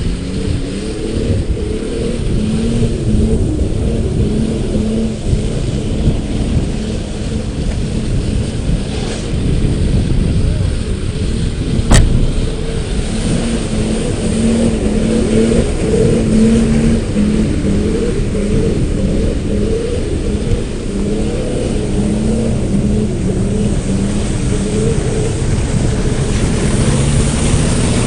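Off-road vehicle engine running under changing load, its pitch rising and falling as it revs over rough ground, with a single sharp knock about twelve seconds in.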